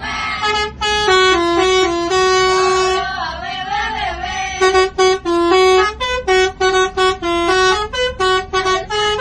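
Truck's musical horn playing a tune in short, stepped notes, with a wavering siren-like stretch in the middle.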